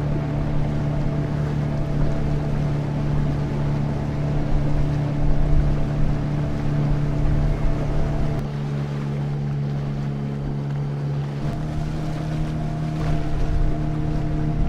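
Motorboat engine running steadily under a wash of water and wind noise, its note dropping about eight seconds in and rising again a few seconds later.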